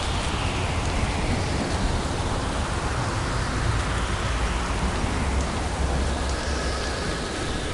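Steady rain falling in a thunderstorm, an even hiss with a low rumble underneath.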